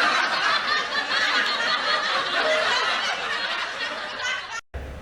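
A group of people laughing together, a dense mix of overlapping laughs that cuts off abruptly near the end.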